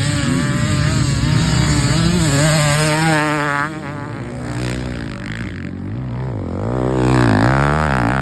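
Motocross bike engine revving, its pitch rising and falling again and again, dropping back about a third of the way in and revving up hard in quick surges near the end.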